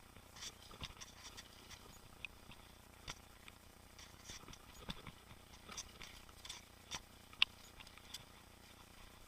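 Mountain bike rolling over a rough trail: irregular small clicks, ticks and rattles of grit and stones under the tyres and of the bike's parts, with one sharper click about seven and a half seconds in.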